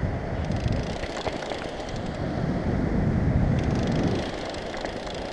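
Wind buffeting the microphone over breaking surf: a rough, uneven rumble that swells and eases.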